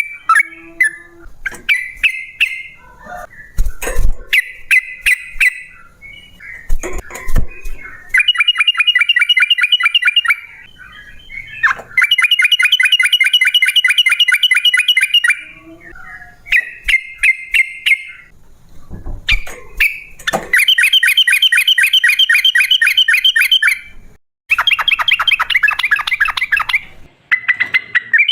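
Yellow-vented bulbul (trucukan) singing its loud, bubbling chatter. Short phrases build into long rapid rattling trills several seconds each, the 'ropel panjang' runs. A few low thumps sound in the first third.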